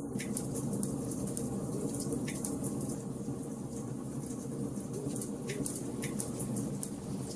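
Wood fire burning in a fireplace: a steady low burning sound under a constant fine crackle of the logs, with a handful of sharper pops scattered through.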